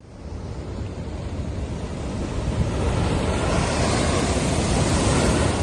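Rough sea: a steady rush of waves and surf, with wind buffeting the microphone, building up over the first few seconds.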